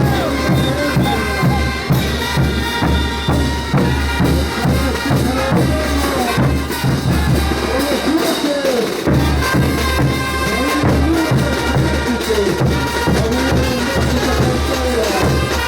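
Andean brass band playing a ch'uta dance tune: massed brass carrying the melody over a steady bass-drum beat.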